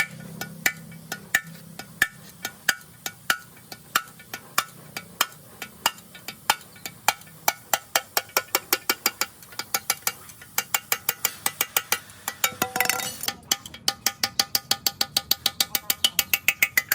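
Repeated light hammer taps on metal, each strike ringing briefly. The taps come about twice a second at first, then quicken to four or five a second, with a short scraping noise around two-thirds of the way through.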